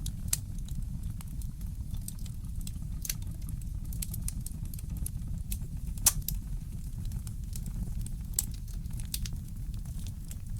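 Fireplace crackling: scattered sharp pops and snaps over a steady low rumble, with one louder pop about six seconds in.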